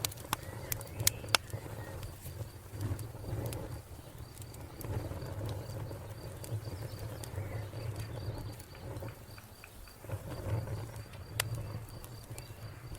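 Wood fire crackling, with scattered sharp pops and a low steady rumble of flames, while a cricket chirps steadily in the background.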